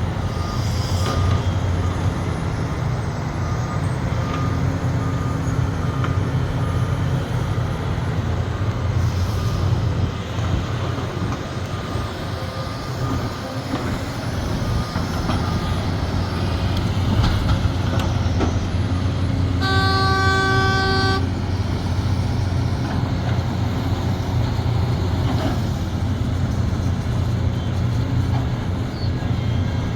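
Heavy excavator's diesel engine running steadily under work, with a faint repeating warning beep in the first few seconds. About twenty seconds in, a horn sounds once for a second and a half.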